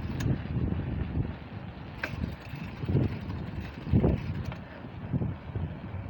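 Wind buffeting and rolling rumble on a bicycle-mounted or handheld camera's microphone while riding, uneven and gusty, with a few sharp clicks or rattles, the clearest near the start and about two seconds in.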